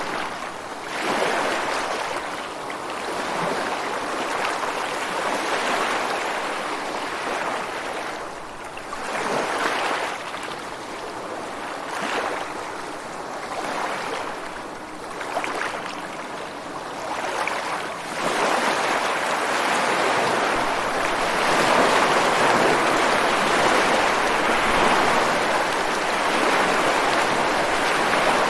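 Ocean surf breaking and washing against a rocky shore, swelling and falling back every few seconds. It turns louder and steadier about two-thirds of the way through.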